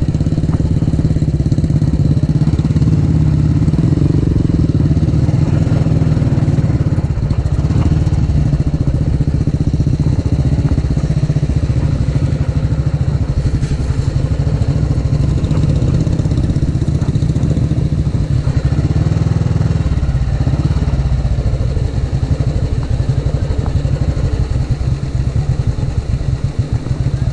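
Old Royal Enfield single-cylinder motorcycle engine running steadily with an even, rapid beat. The beat eases slightly and becomes more distinct about three-quarters of the way through.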